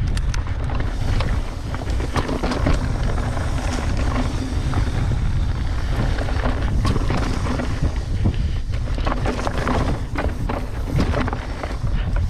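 Mountain bike riding down a trail, heard from a bike-mounted action camera: wind buffeting the microphone with a constant low rumble, and the bike and tyres rattling and knocking irregularly over rough ground.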